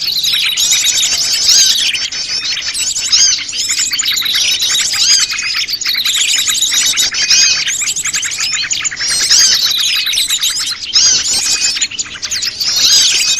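Chorus of many small wild birds chirping and trilling at once, a noisy, continuous twittering of overlapping calls.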